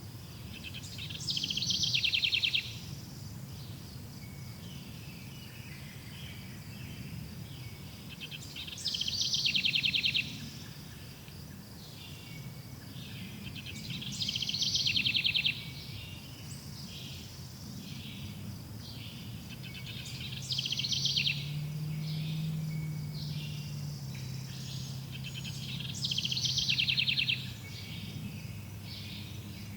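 A songbird sings the same short trilled phrase five times, about every six seconds. Behind it runs a steady high chorus of insects such as crickets, over a low background hum.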